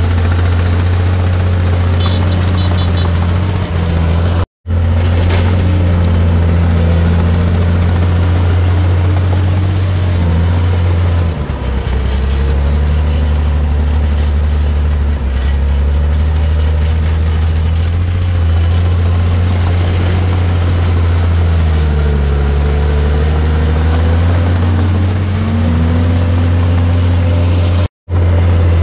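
Komatsu D51PX bulldozer's diesel engine running loud and steady, its pitch dipping and recovering several times as the load on it changes. The sound cuts out for an instant twice, once about four seconds in and once near the end.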